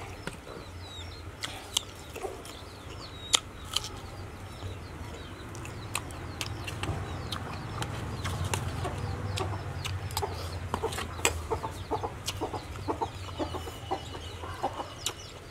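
Crisp raw baby corn and okra being bitten and chewed, with sharp crunches now and then. Chickens cluck and small birds chirp in the background over a steady low hum.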